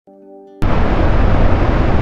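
A brief faint musical tone, then, about half a second in, a loud steady rush of falling water from the Jog Falls waterfall, heaviest in the low end.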